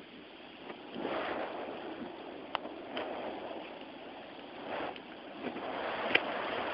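Gusty storm wind rushing through trees, swelling and easing in waves, with a few short clicks.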